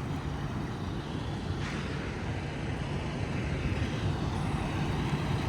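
Semi truck's diesel engine running steadily at low speed as the truck inches forward.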